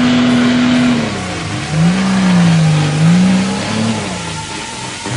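Off-road 4x4's engine revving hard under load as the truck strains to climb a muddy bank. It is held at high revs for about a second, then eased off and revved up and down again.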